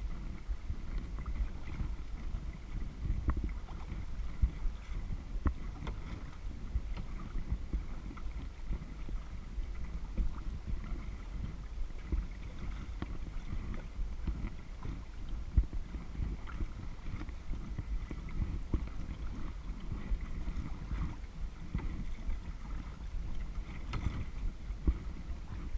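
Kayak paddling on a lake: water lapping and splashing at the paddle and hull, with a low wind rumble on the action-camera microphone and small irregular knocks.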